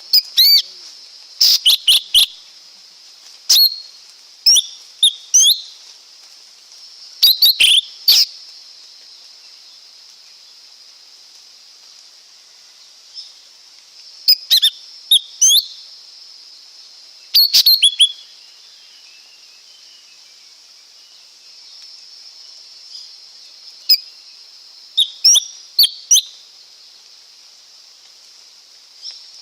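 Lesser green leafbird calling: quick clusters of short, sharp, high notes, several in a row, with pauses of a few seconds between groups and a longer gap in the middle. A steady high hiss runs underneath.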